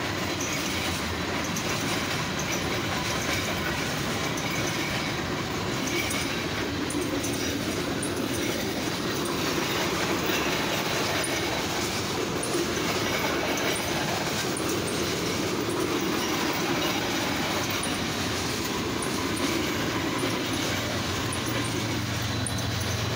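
Freight cars (grain hopper, tank car, boxcars) rolling steadily past at track level: a continuous rumble of steel wheels on rail, with scattered high clicks and faint wheel squeal. Near the end a low steady diesel engine hum comes in as the mid-train GE ES44DC locomotive approaches.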